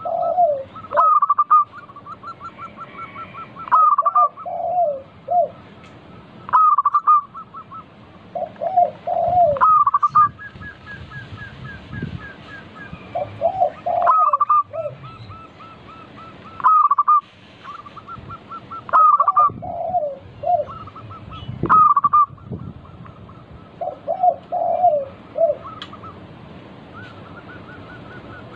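Zebra doves (perkutut) singing in repeated phrases. Each phrase is a loud high coo that runs into a rapid staccato trill, then a lower cluster of rolling coos, repeating every few seconds.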